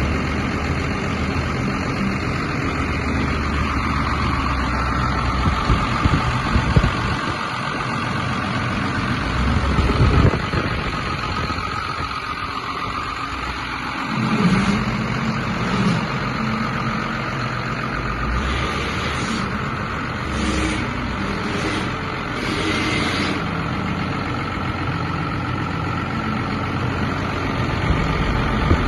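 Cummins B5.9 5.9-litre inline-six diesel engine running steadily at idle.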